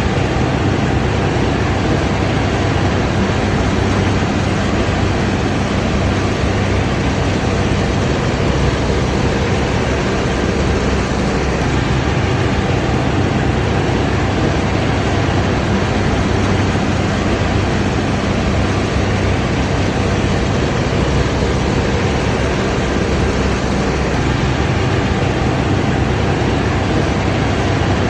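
A combine harvester's diesel engine and threshing machinery running steadily under load, a loud constant hum with a low engine drone.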